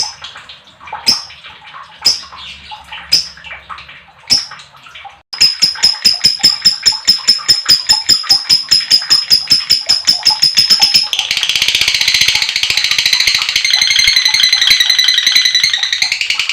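Lovebird calling: sharp single chirps about once a second, then after a sudden cut a long, fast, even chattering trill (the 'ngekek' call), which turns into denser, harsher chatter near the end.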